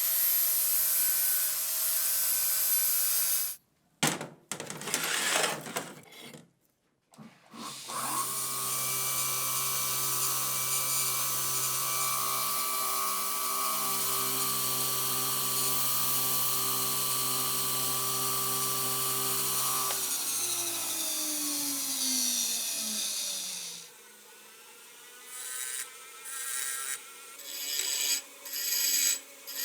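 Electric power tool running steadily: it stops a few seconds in, runs in short bursts, then runs steadily again from about eight seconds in and spins down, its pitch falling, a few seconds before the end. Short rubbing or scraping strokes follow.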